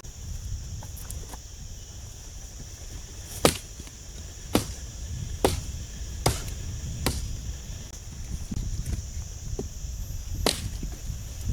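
A series of sharp knocks, five about a second apart and one more near the end, over a steady low rumble and a thin high hiss.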